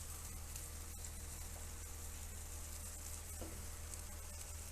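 Cooked-down spice masala sizzling faintly and steadily in oil in a kadai over a high gas flame; the masala has fried until the oil separates.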